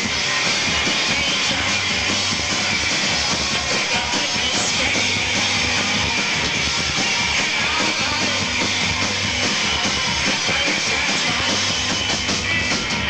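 Live rock band playing loudly: electric guitar, bass and drum kit.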